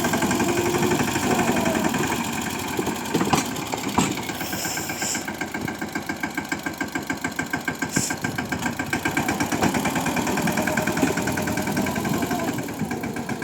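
Swaraj tractor's diesel engine running with a steady, even chug, and a few short knocks a few seconds in.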